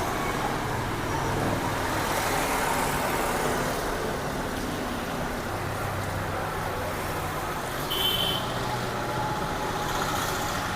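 Steady road traffic noise, engines running and passing by, with a short high-pitched sound about eight seconds in.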